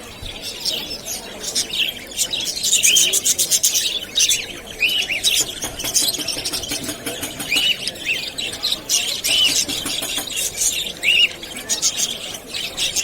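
Several small birds chirping and chattering without a break, with a short rising-and-falling call that comes back every few seconds.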